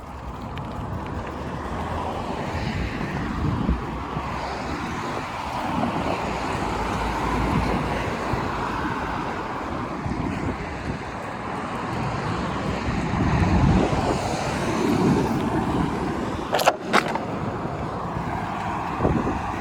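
Road traffic passing along a city street, with low wind rumble on the microphone from riding a bicycle. A couple of sharp clicks about three-quarters of the way through.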